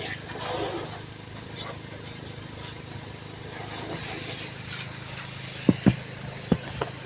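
A steady low machine hum with a hiss over it, then four sharp knocks in quick succession near the end.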